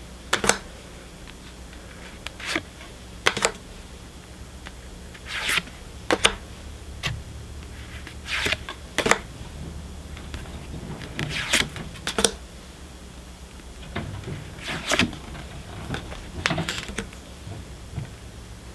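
Pokémon trading cards being handled and flipped through one by one: short, sharp card sounds at uneven intervals, about one a second, over a low steady hum.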